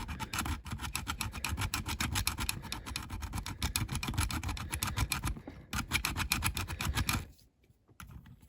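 A hand file worked in rapid back-and-forth strokes over the mushroomed rivet head of a diecast toy's baseplate post, grinding it flat so it can be drilled out. The filing breaks off briefly about five seconds in, then stops about seven seconds in.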